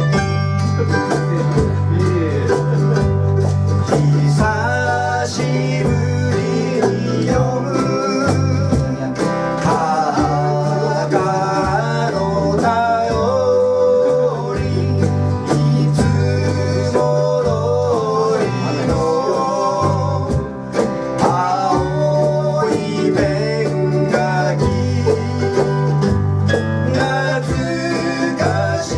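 Live acoustic song: plucked guitar accompaniment with a singing voice carrying the melody over a steady bass line.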